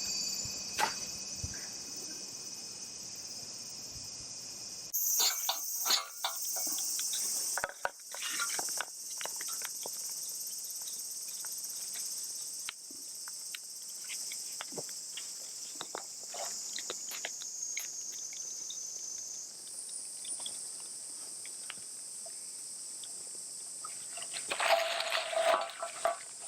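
Steady, high-pitched chorus of insects droning outdoors, with scattered light clicks and knocks. Near the end comes a brief louder sound with a pitch.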